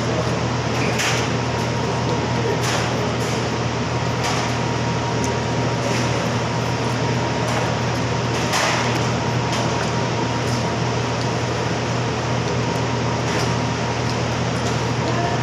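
Steady machine hum and hiss, with a faint high whine, and a few short clicks now and then.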